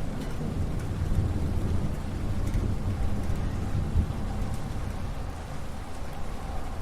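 Steady rain falling with a low rumble of thunder underneath, the rumble strongest at the bottom of the sound and peaking briefly about four seconds in.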